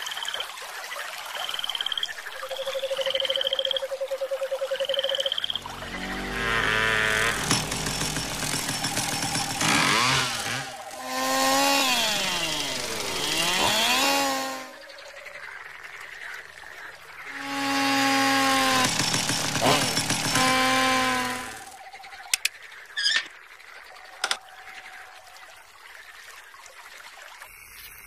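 Cartoon sound effects from an animated insect series: a run of short high chirps over a buzzing tone, then a dense layered passage, pitched tones sliding down and back up, held pitched calls, and a few sharp clicks near the end.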